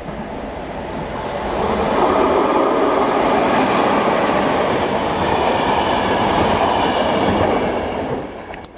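Electric locomotive and passenger coaches passing close by, the noise of wheels on the rails building over about two seconds and holding steady. It drops away sharply near the end as the train has gone by.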